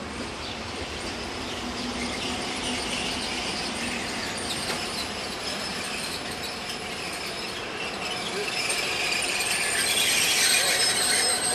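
Bernese Oberland Railway ABeh 4/4 electric railcar squealing as it creeps slowly in to couple. The high squeal grows louder and cuts off suddenly near the end.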